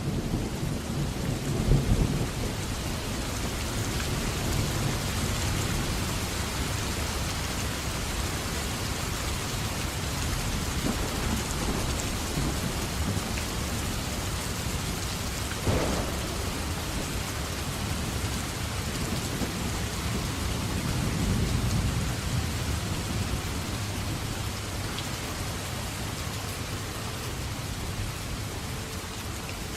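Steady heavy rain falling during a thunderstorm, with thunder rumbling near the start and again about two-thirds of the way through, and a single sharp crack of thunder about halfway.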